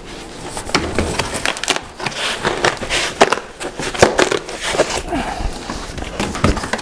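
White foam packing being pulled out of a cardboard box: an irregular run of scrapes, rubbing and sharp knocks as the foam drags against the cardboard and the printer's frame.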